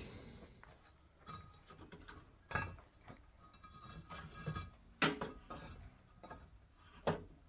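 Scattered light knocks and clatter of hard objects being handled, with sharper knocks about two and a half, five and seven seconds in.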